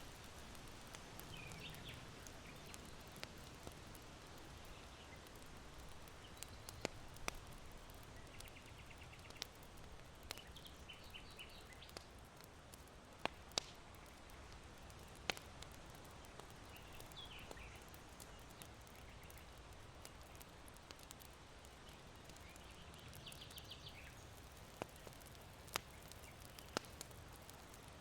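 Charcoal in an irori hearth crackling with sparse, sharp pops. Small birds chirp in short trills every few seconds over a faint, steady rush of wind.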